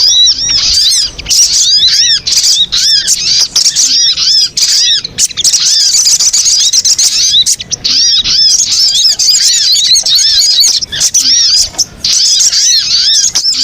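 Sogon bird calls played as a lure recording: rapid, overlapping high-pitched chirps, each a short up-and-down note, in a dense, unbroken chatter.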